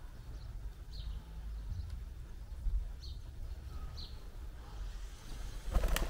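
Short, high, falling bird chirps repeating about once a second over a steady low background rumble, with a brief knock just before the end.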